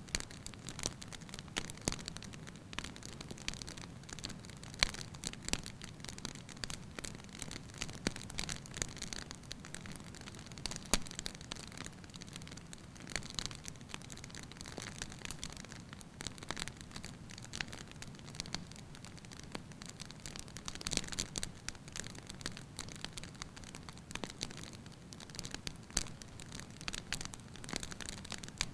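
Wood fire burning in a fireplace: a steady low rush of flame with frequent irregular crackles and pops.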